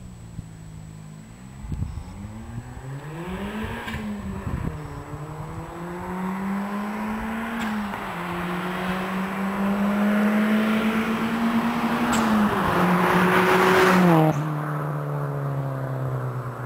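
Turbocharged Toyota Glanza's four-cylinder engine, fitted with an aftermarket exhaust, accelerating hard toward the microphone through the gears. The pitch climbs in each gear and drops at each change. The car passes close near the end, loudest there, then the pitch falls as it pulls away.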